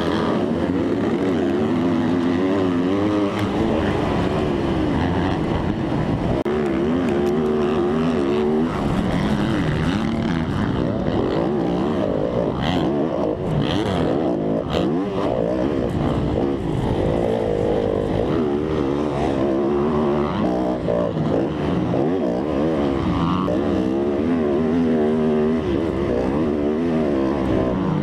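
Motocross dirt bike engine being ridden hard, its pitch rising and falling again and again as the rider opens and closes the throttle and shifts gears, with a few sharp clatters partway through.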